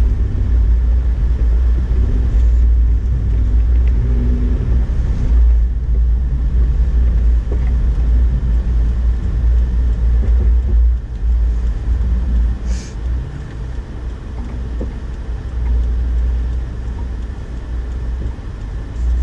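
2008 Honda Ridgeline driving on a snow-covered road: a steady low rumble of engine and tyres that eases a little past halfway. One short click comes about two-thirds of the way through.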